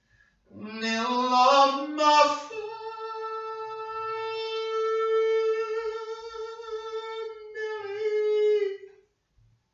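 A solo voice singing without accompaniment: a short rising phrase, then one long held note of about six seconds that stops near the end.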